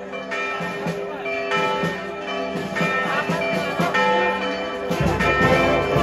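Church bells ringing together in a festive peal, many tones overlapping, mixed with music. A low rumble comes in about five seconds in.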